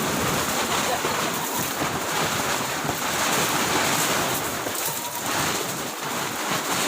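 Strong wind and surf at the shore: a steady, noisy rush of wind with waves breaking.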